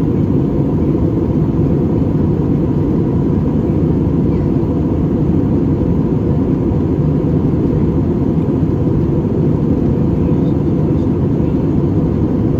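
Steady engine and airflow noise heard inside the cabin of an Airbus A320-200 in powered flight, a deep even rumble with a faint steady hum above it.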